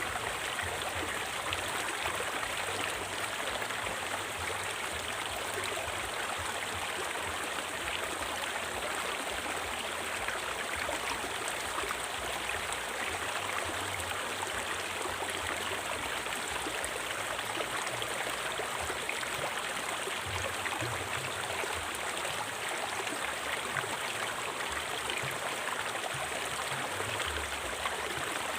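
River water flowing over rocks: a steady, even rush of rippling and splashing.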